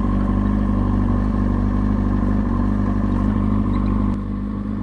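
2003 Kawasaki ZX-6R 636 inline-four engine running at a steady low speed, its note easing slightly about four seconds in.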